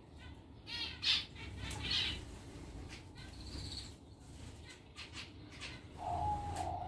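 Captive birds in an aviary calling: scattered short chirps and squawks every second or so over a low steady hum. Near the end a louder, steady tone comes in.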